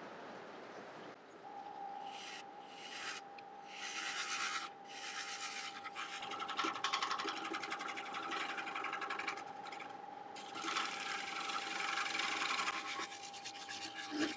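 Wood lathe running with a steady whine while a negative rake scraper is drawn across the inside of a dry yew bowl in several scraping passes with short pauses between them, taking out tool marks. The whine comes in about a second in.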